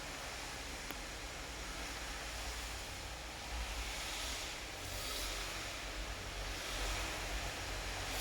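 Steady rain falling, an even hiss, with a low rumble underneath that swells twice.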